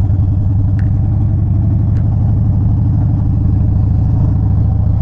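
Motorcycle engine running at low revs as the bike rolls slowly, a steady, even-pulsing low rumble.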